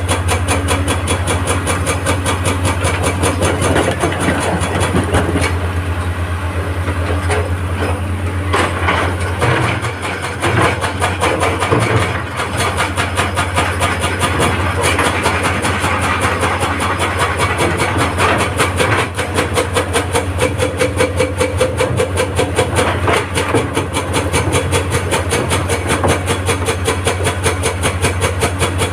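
Heavy excavator's diesel engine running at work, with a fast, even pulsing and a few louder knocks around the middle.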